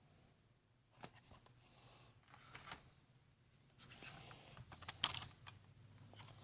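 Faint handling noises from packaged diecast toy cars being moved: a few soft clicks, one about a second in and a cluster around five seconds in, with light plastic rustling between them.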